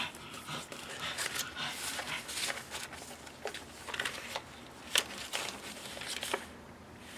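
Paper rustling with irregular soft clicks and crinkles as the papers, tags and pages of a handmade paper journal are handled and turned.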